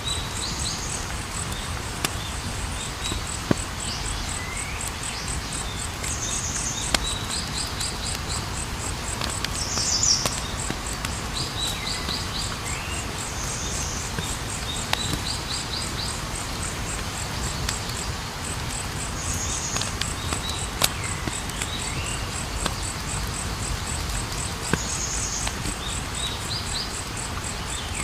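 Campfire burning with a low steady rumble and scattered sharp crackling pops. Over it, crickets chirp in a fast, even high pulse, and short falling calls recur every few seconds.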